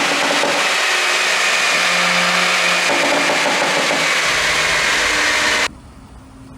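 Porsche Panamera 4's twin-turbo V6 running under load with a loud rushing exhaust and road noise. The pitch steps a few times, then the sound drops abruptly about five and a half seconds in to a quieter engine sound with a low rumble.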